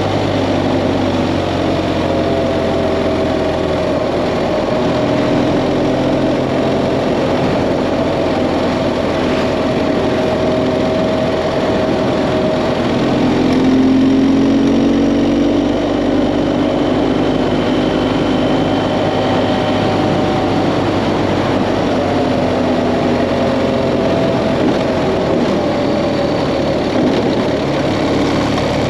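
BMW GS Adventure motorcycle engine running on the move, its pitch drifting up and down with speed, over steady wind and road noise.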